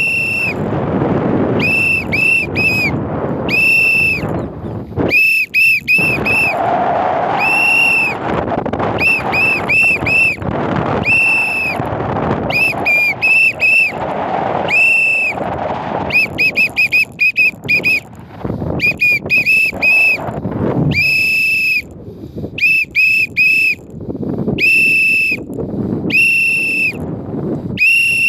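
A whistle blown over and over at one steady high pitch, in short quick toots and longer held blasts, over a loud rushing noise. It is a trainer's recall whistle for free-flying parrots.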